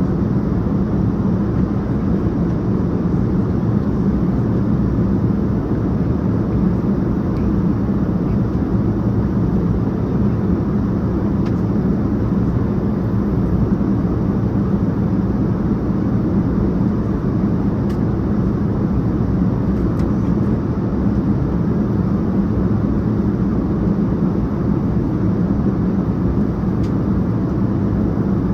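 Steady cabin noise of a Boeing 787-9 heard from a passenger seat: a constant low rumble of engines and rushing air with no change in level.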